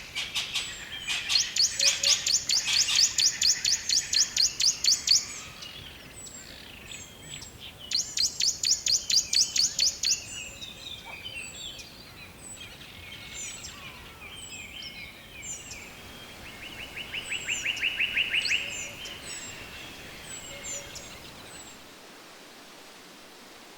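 Songbirds singing: loud rapid high-pitched trills repeated in bursts, then scattered short chirps and a lower trill that swells and stops, over a faint steady hiss.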